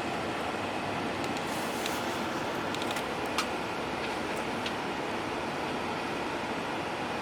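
Steady engine and road noise heard inside a moving bus, with a few faint clicks and rattles about two to four seconds in.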